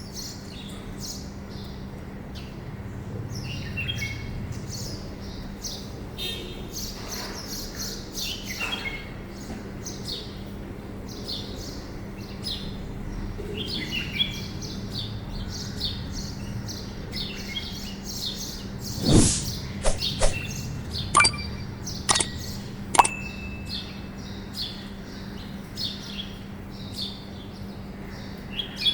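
Many birds chirping in short, high calls, over a steady low hum. About two-thirds of the way through comes a loud thump, followed by a few sharp clicks.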